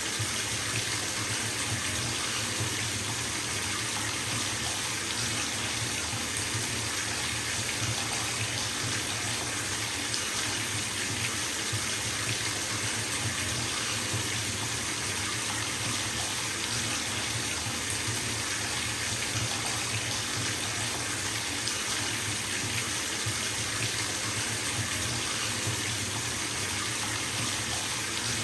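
Bathtub filling from a running tap: a steady, unbroken rush of water pouring into the tub.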